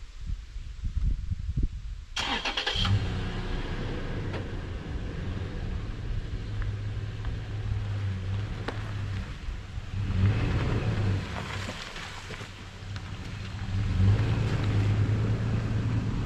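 Toyota FJ Cruiser's V6 petrol engine starting with a short burst about two seconds in, then running steadily and pulling away, getting louder twice as the car drives off.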